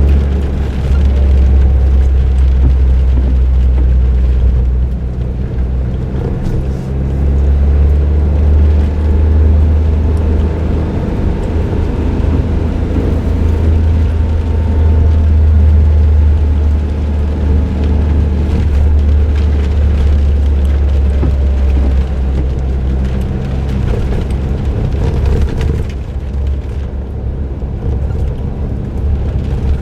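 Suzuki Jimny JB23W's 660 cc turbocharged three-cylinder engine, fitted with an aftermarket muffler, droning steadily while driving, with road noise. The drone eases briefly about six seconds in and again near the end.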